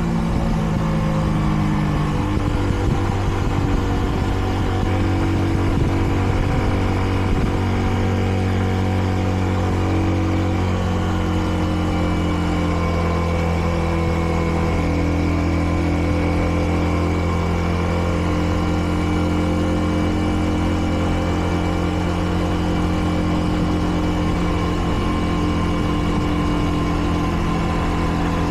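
Kreidler Dice CR 125 motorcycle's single-cylinder four-stroke engine running while being ridden, its note dropping about two seconds in and then holding steady. The bike is being run in, so it is kept to moderate revs.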